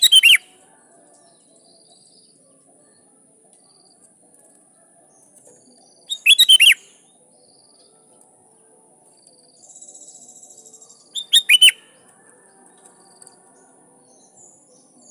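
Sooty-headed bulbul singing short bubbly phrases of a few quick notes, three times about five seconds apart, over a faint steady high insect buzz.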